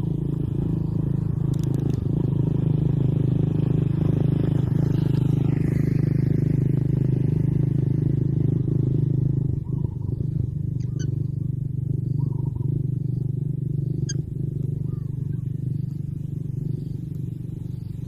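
A steady low mechanical hum, like a running engine or motor, with a falling whine about five seconds in and a few faint short chirps and clicks.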